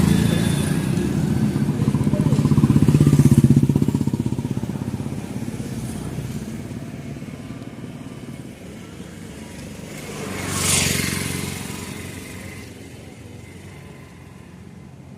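A vehicle engine running, growing louder to a peak about three seconds in and then fading away as it moves off. A second vehicle passes with a brief swell about eleven seconds in.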